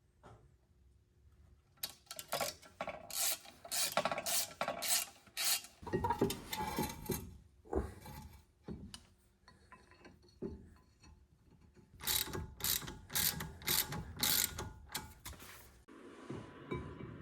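A hand tool worked in quick repeated strokes, a rapid mechanical clicking rasp about two to three strokes a second, in two spells with a pause and a few lighter knocks between them.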